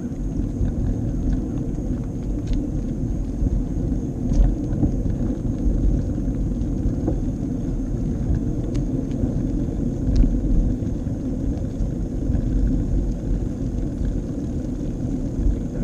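Steady low rumble of riding a bicycle, with a few faint clicks.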